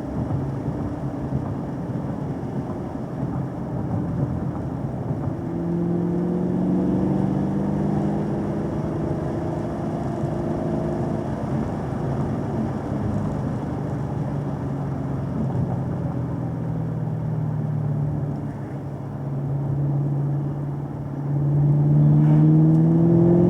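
A car's engine pulling through a winding road, its note climbing and easing with the throttle over steady road noise, then rising louder under acceleration near the end.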